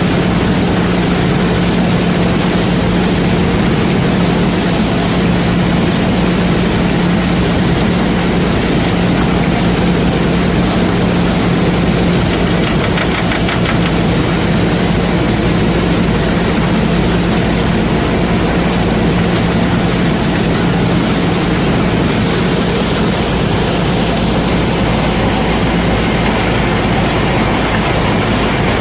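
Combine harvester running steadily while harvesting maize, its engine and threshing machinery giving a constant hum with a strong low tone and a high whine.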